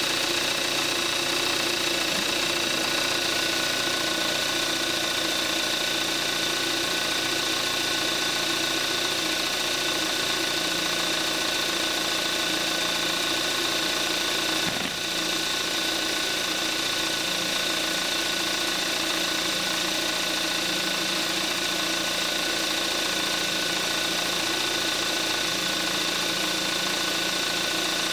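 2014 Kia Forte5's 2.0 GDI four-cylinder engine idling steadily under an open hood, with steady high-pitched whining tones over the engine note. This is its normal running sound at about 41,000 miles on 5W-30 oil.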